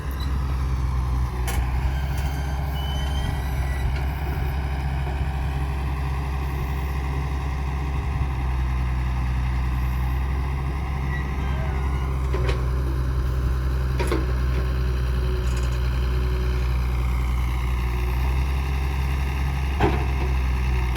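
Heavy diesel engine running steadily at a low, even drone, with a few sharp knocks scattered through it.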